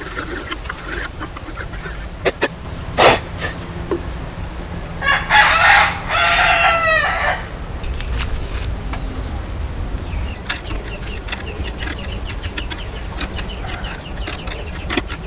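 A rooster crowing once, a long arching call of about two and a half seconds a little before the middle. Before the crow come a few sharp knocks, and faint clicking follows it.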